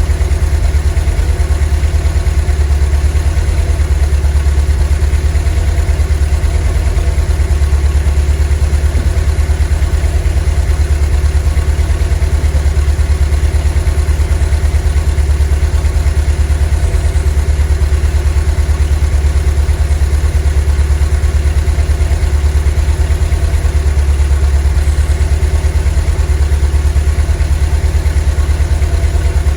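VW T3 bus's 2.1-litre WBX water-cooled flat-four engine running at a steady, even speed, with a deep, constant low hum and no revving.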